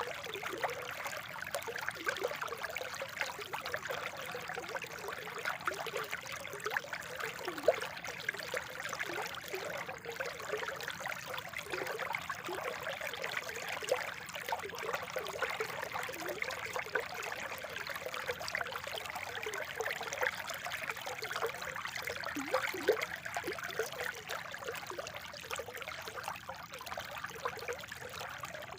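Spring water trickling and babbling steadily over stones, with many small splashes and gurgles.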